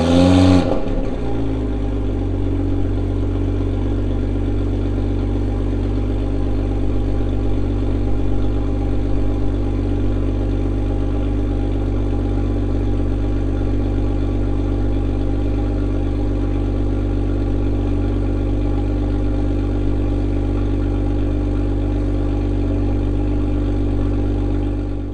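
Toyota GR Supra's turbocharged 3.0-litre inline-six idling through a newly fitted Active Autowerkes catted downpipe. A short rev drops back to idle about a second in, and the idle then stays steady.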